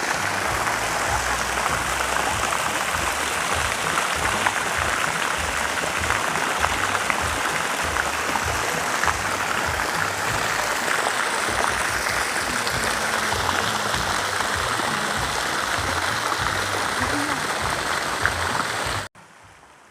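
Steady rush of falling, splashing water. It cuts off suddenly near the end.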